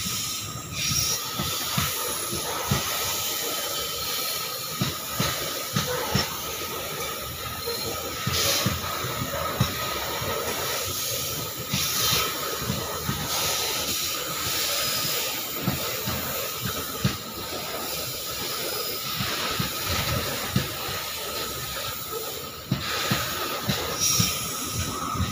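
Loaded coal hopper wagons of a long freight train rolling past: a steady rushing hiss with frequent irregular knocks and clanks from the wheels on the rails.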